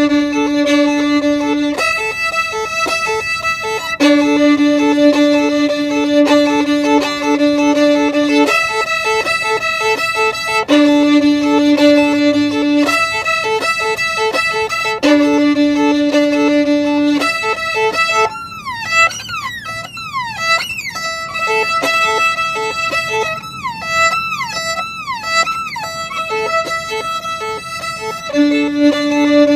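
Solo violin improvising: long held low notes alternate with quick repeated higher notes, and in the middle stretch the playing turns to fast downward slides in pitch before the held notes return near the end.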